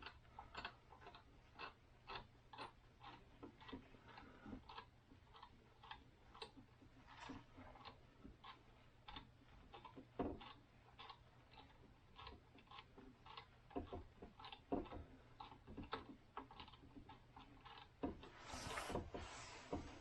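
Faint, irregular small clicks and taps, roughly one or two a second, from a precision screwdriver and small plastic drone parts being worked by hand. Near the end there is a brief scraping rustle.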